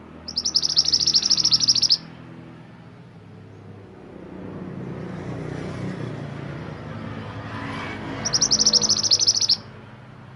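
Mantenan gunung songbird singing two loud, fast trilling phrases of high notes, one at the start and one near the end. Between them a low rushing noise swells and fades.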